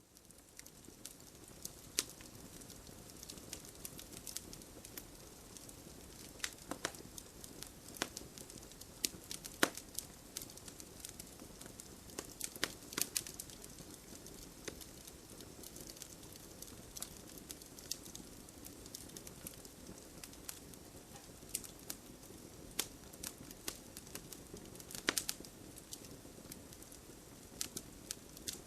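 Campfire crackling: a steady low hiss of burning wood under irregular sharp pops and snaps, some close together, the loudest about ten and thirteen seconds in and again near twenty-five seconds.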